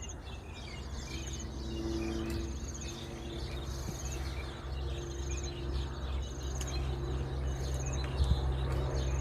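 Outdoor insect chorus: short high trills repeating about once a second over a steady low hum.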